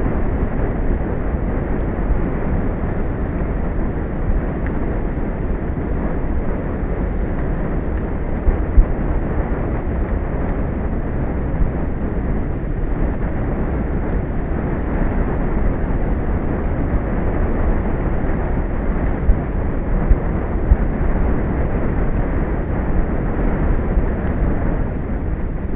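Steady low rumble of wind buffeting the microphone on an exposed offshore tower, with a few brief knocks.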